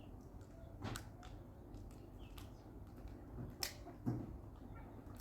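A few short, sharp clicks and knocks, four spread over about five seconds, over a faint steady background.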